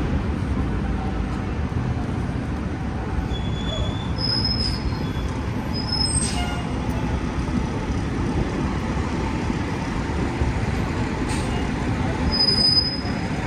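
City street traffic rumbling steadily, with several brief high-pitched squeals, the loudest about a second before the end.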